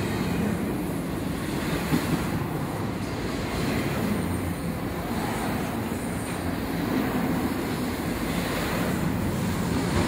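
A train rolling through on steel rails: a steady low rumble of wheels and cars, with a few faint high squeals from the wheels.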